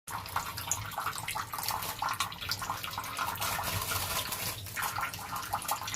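Running water spraying steadily and splashing, with many small irregular splashes.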